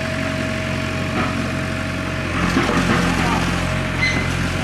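A motor engine idling steadily, with people talking in the background.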